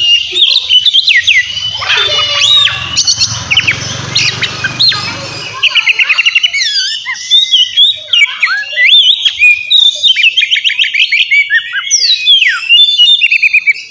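Oriental magpie-robin (kacer) singing loudly and without pause: a fast, varied song of whistles, sweeping slides and rapid trills.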